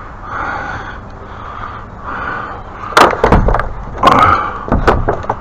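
Hard objects being handled and moved: sharp knocks and clunks with scraping, one about three seconds in and a cluster from about four to five seconds in.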